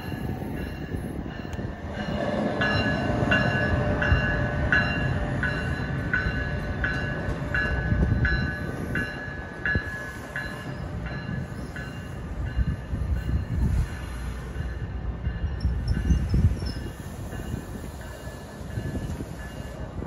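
NJ Transit commuter train of Multilevel bi-level coaches running past with a steady rumble of wheels on rail. A bell dings about one and a half times a second from about two seconds in until about halfway through, then stops.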